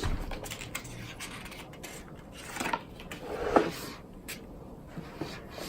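Rubbing and rustling of craft-kit packaging being handled, with scattered small clicks and taps as its contents are dug out.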